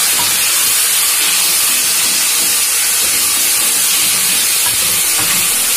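Chopped tomatoes, garlic and ginger sizzling in hot oil with browned onions as they are sautéed in a pot: a loud, steady hiss.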